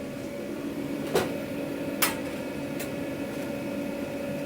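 Food-truck kitchen work: a steady machine hum, with two sharp clacks of utensils or pans on metal about one and two seconds in and a lighter one near three seconds.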